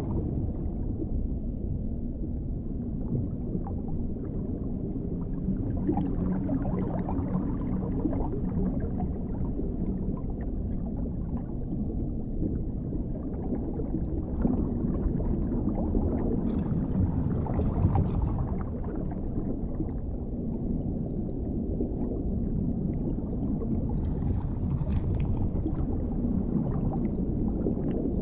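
Dark underwater ambience: a steady, deep rumbling wash of water with soft gurgling and scattered faint clicks.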